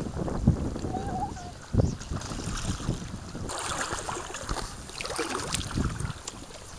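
Wind buffeting the microphone over water sounds aboard a small fishing boat, with uneven rumbles and a few scattered knocks.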